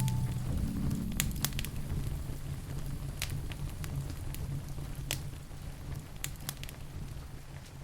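Crackling wood fire with rain: scattered sharp pops over a low rumbling hiss, growing gradually quieter.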